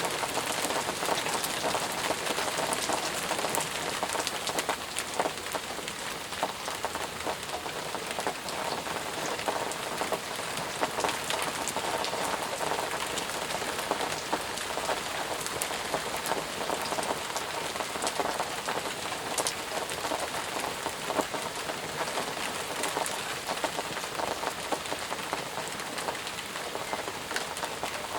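Steady heavy rain falling on a surface, a continuous hiss dense with small pattering drop impacts.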